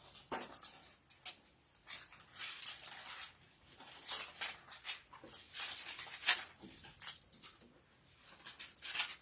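Faint, irregular rustling of Bible pages being turned, in short soft strokes, one a little louder about six seconds in.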